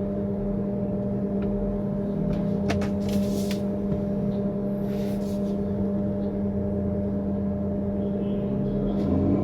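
A steady, unchanging hum with overtones, with a few faint clicks.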